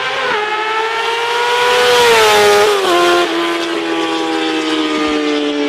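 Yamaha R6 inline-four sport bike engine held at high revs through a short open 'shorty' pipe with no muffler, loud and high-pitched. The pitch climbs slightly, drops quickly just under three seconds in, then sags slowly as the revs ease off.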